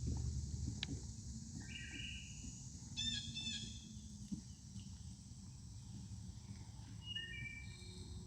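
Faint outdoor birdsong: a few short groups of high chirping calls, over a steady low rumble.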